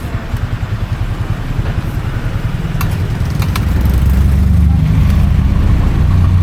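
A motor vehicle's engine runs close by, a low rumble that grows louder from about three seconds in, with a few light clicks over it.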